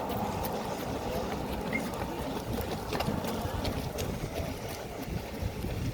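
Steady low wind rumble on the microphone over outdoor noise, with a few faint clicks.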